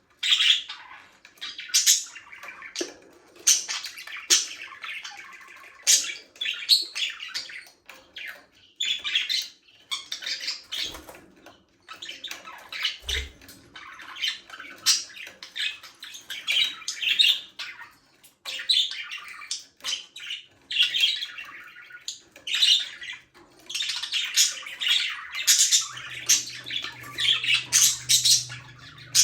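A flock of budgerigars chirping and chattering, with overlapping warbles and short squawks that come in dense bursts with brief pauses between them.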